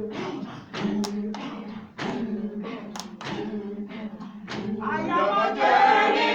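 A Revival Zion band labouring: a group of voices chanting and groaning over a held low note, with sharp claps or beats about twice a second. About five seconds in it swells into louder group singing and shouting.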